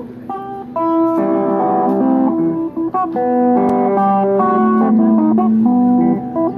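Guitar music: a plucked guitar melody over chords, with notes changing quickly.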